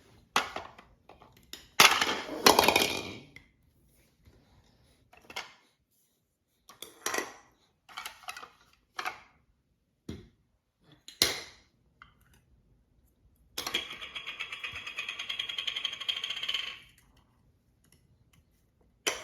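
Spoon and fork clinking and knocking against a toddler's dish or feeding tray as he feeds himself: scattered sharp taps, the loudest about two seconds in. About two-thirds of the way through comes a steady rattling that lasts about three seconds.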